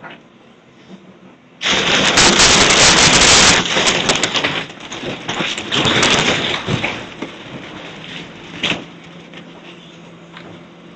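House demolition debris crashing down: a sudden loud crash about two seconds in, then several seconds of crackling and snapping of breaking wood and rubble. One sharp crack comes near the end, over a steady low hum.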